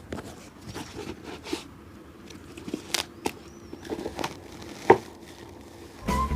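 Scattered light clicks, taps and rustling strokes of hand shoe-shining work, with one sharp click about five seconds in. Music starts at the very end.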